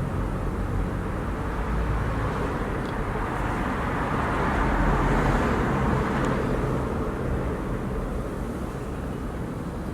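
Steady outdoor background noise with a low hum underneath, swelling a little about halfway through and easing off toward the end.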